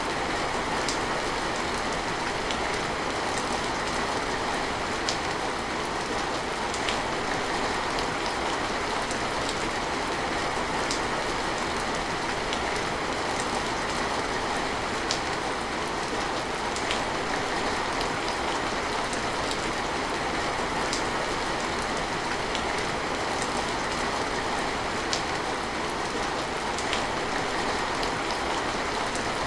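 Steady rain falling, with occasional single drops ticking close by.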